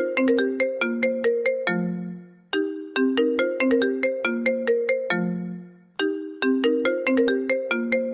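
Apple iPhone ringtone playing: a short melody of quick, bright notes, repeating about every three and a half seconds, each phrase ending on a lower held note that dies away.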